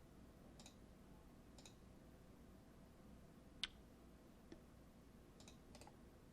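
Near silence with a few faint computer mouse clicks and one sharper click about three and a half seconds in.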